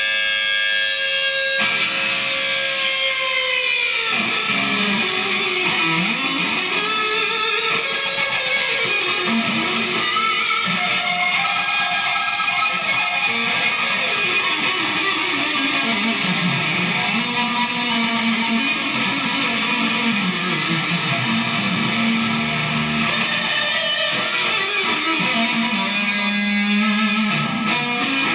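Distorted electric guitar played as noise: sustained notes that slide and dive in pitch over a dense, buzzing wash, with a long downward dive a few seconds in.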